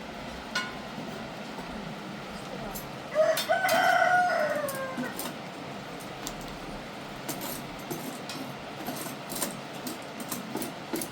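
A rooster crows once, about three seconds in: a single held call of nearly two seconds that falls away at the end. Scattered short clicks and taps follow later.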